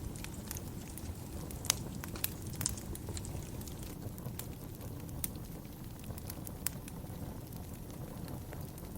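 Wood fire burning in a fireplace, crackling, with irregular sharp pops and snaps over a steady low rumble of flame.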